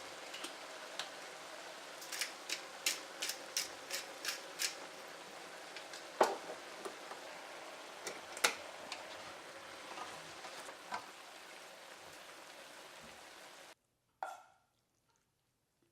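Yu choy sum cooking in a hot pan with a steady sizzle, a utensil clicking against the pan about three times a second for a few seconds and knocking on it twice more. Near the end the sizzle cuts off abruptly, and a single knock with a short ring follows.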